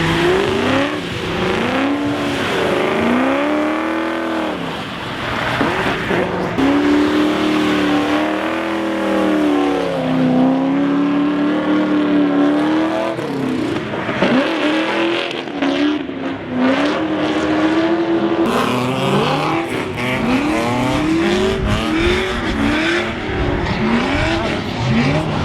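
Drift cars' engines revving hard, their pitch swinging up and down continually with the throttle as they slide through, with a run of quick repeated rev sweeps near the end.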